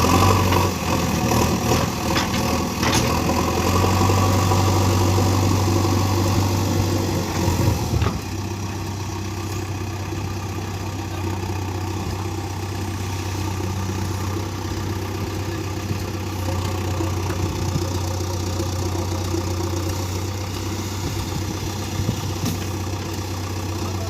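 Heavy vehicle's diesel engine running steadily, louder for the first several seconds and then settling to a lower, even idle about eight seconds in.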